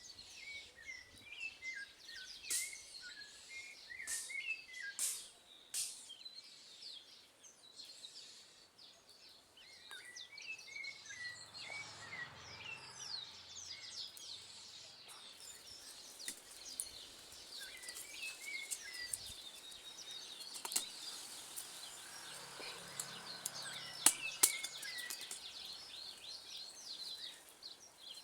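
Wild birds chirping: repeated short calls and many thin high chirps over quiet outdoor background, with a few sharp clicks and, twice, a faint low hum.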